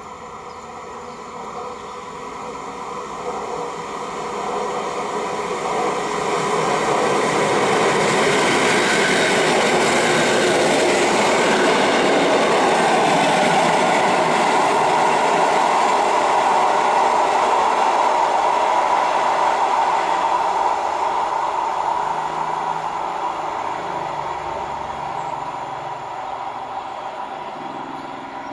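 POLREGIO EN57 electric multiple unit passing: running noise and wheels on the rails grow as it approaches, are loudest for several seconds as it runs by, then fade as it moves away.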